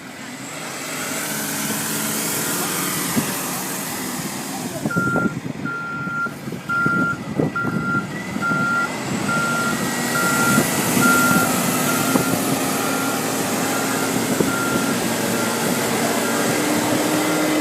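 A truck's reversing alarm beeping at a steady pace, a little over once a second, starting about five seconds in, over the sound of the truck's engine running.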